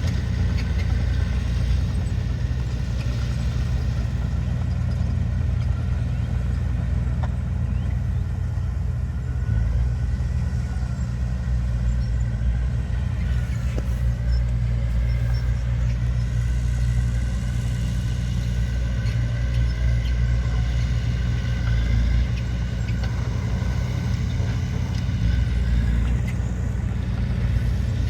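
Heavy earthmoving machinery, a bulldozer or dump truck, with its diesel engine running steadily as a continuous low rumble and a faint higher whine over it.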